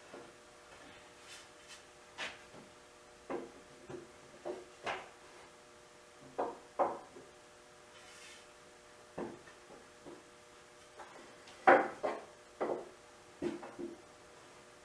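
Wooden boards and plywood pieces being handled and set down: scattered knocks and clatters, the loudest about twelve seconds in.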